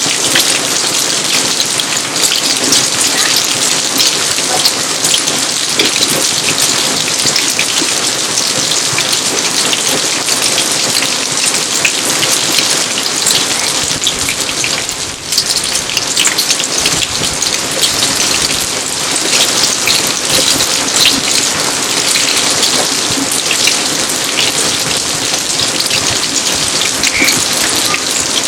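Steady rain falling on an outdoor garden: a dense, even hiss of many small drops, with a brief dip in level about fifteen seconds in.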